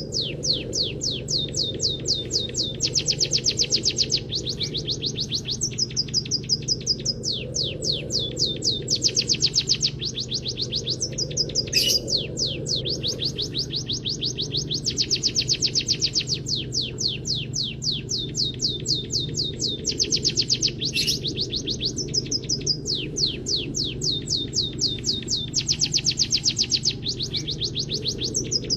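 A munia (the bird keepers' peking / emprit kaji) singing canary-style song: phrase after phrase of fast repeated high chirps and trills with short breaks between them, over a steady low hum.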